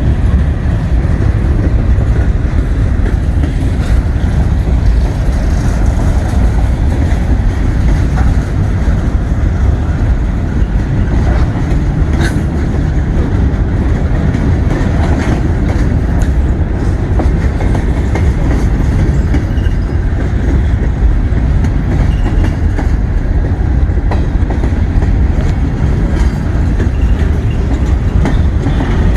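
Freight train rolling past close by: a loud, steady rumble of railcars with wheels clicking over the rail joints, and a sharp metallic click about twelve seconds in.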